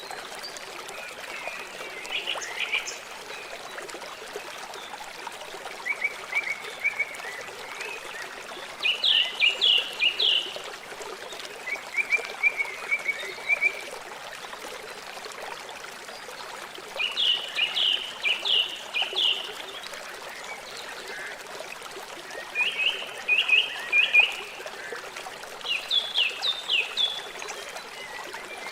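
River water flowing with a steady rush. Over it, an animal repeatedly gives short bouts of rapid, high chirping notes, about seven bouts a few seconds apart.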